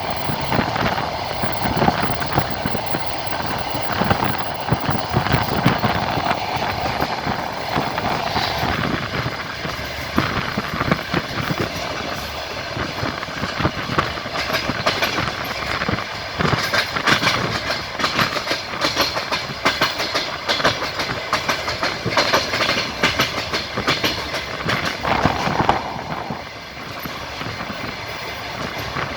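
Passenger train on the move: the carriage rumbles steadily while its wheels clatter over the rail joints. The clatter is densest in the middle and eases a little near the end.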